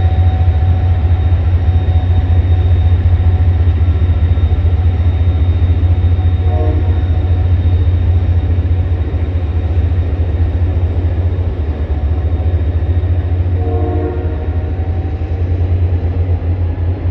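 Commuter rail diesel train running with a loud, steady low rumble, and two short horn toots, one about six seconds in and another near fourteen seconds.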